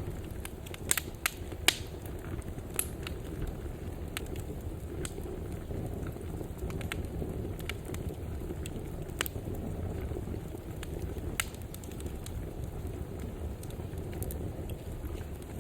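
Wood fire burning in a fireplace: a steady low rumble of the flames with scattered sharp crackles and pops. A few louder pops come about a second in.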